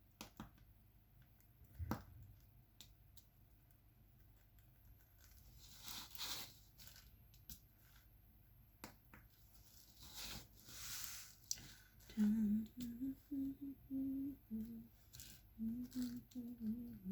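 Small scattered clicks and taps, typical of a diamond painting pen setting resin drills, with two brief rustles; from about 12 seconds in, a person hums a tune in short stepping notes.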